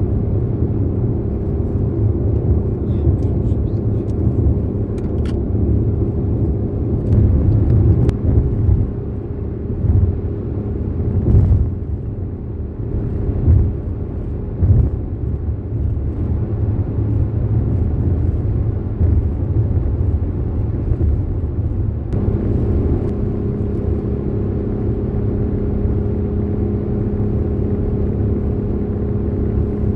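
Road and engine noise inside a car cruising on a highway: a steady low rumble with a constant hum, a few light clicks in the first several seconds, and the hum growing louder about two-thirds of the way through.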